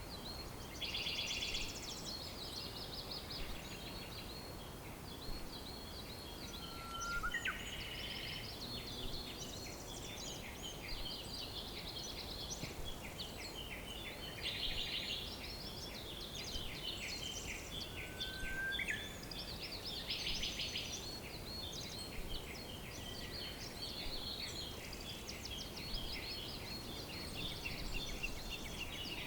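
A chorus of several songbirds singing and calling at once: rapid chirps and trills overlapping throughout, with two short lower whistles, over a steady background hiss.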